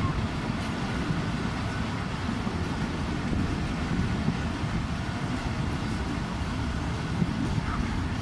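Passenger train running along the track, heard from aboard one of its coaches: a steady low rumble of wheels on rails with a rush of air.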